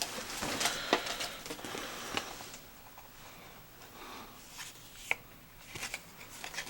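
Cargo pants being handled: fabric rustling with several light clicks and taps, busiest in the first couple of seconds, then a few single clicks near the end.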